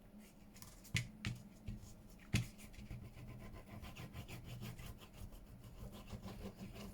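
Paper being handled and rubbed down on a journal page, with a few sharp taps near the start and soft, irregular rubbing and rustling after.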